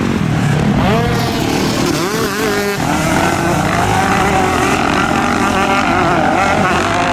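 Several motocross bikes racing, their engines revving up and down in overlapping rising and falling notes as they accelerate and shift.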